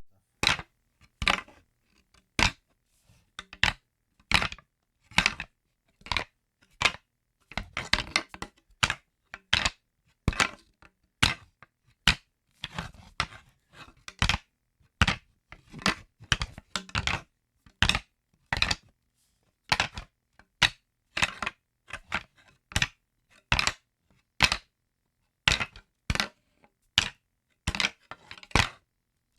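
A trapped dragonfly's wings clattering in short, irregular clicks and taps, roughly one or two a second with brief silences between, as it struggles against its confinement.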